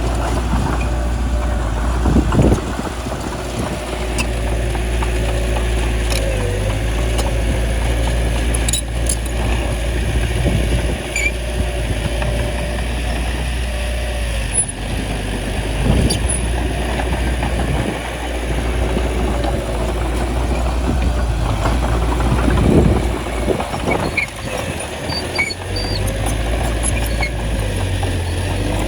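Small bulldozer's diesel engine running steadily as it works, with a few brief louder surges about two, sixteen and twenty-three seconds in.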